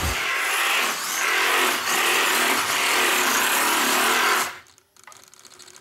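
A Kyosho Mini-Z AWD RC drift car running: its small electric motor and tyres sliding on the track give a steady hissy whir. It stops about four and a half seconds in.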